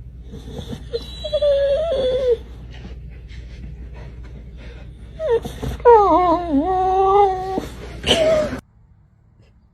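An animal's whining, whimpering cries: a short wavering cry about a second in, then a longer wavering cry about six seconds in.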